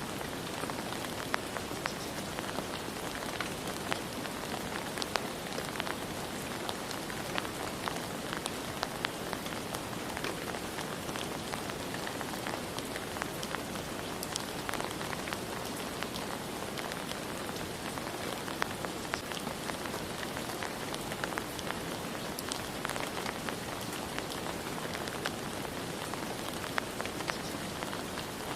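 Steady rain falling, with the scattered ticks of individual drops striking a surface.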